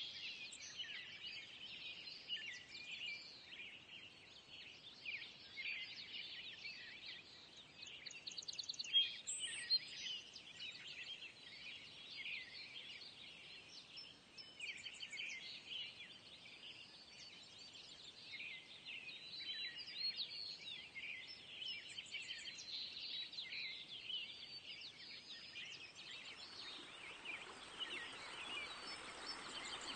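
Birds chirping and singing, a busy chorus of short overlapping calls. Near the end a steady rushing hiss fades in under the birdsong.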